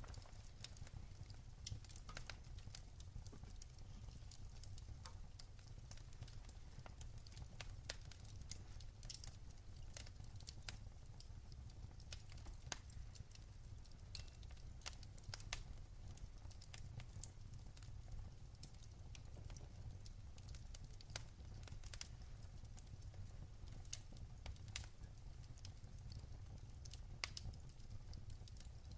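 Wood fire crackling in a fireplace: faint, irregular small pops and snaps over a steady low rumble.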